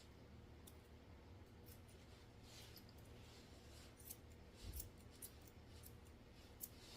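Faint, irregular snips of grooming scissors cutting a poodle's face hair, with a soft low bump a little past halfway.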